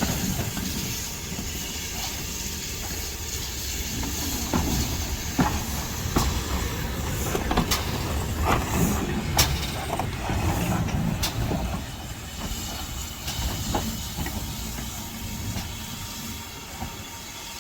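Steam locomotive and train running, with a steady hiss of steam over a low rumble and a series of sharp clicks and knocks in the middle.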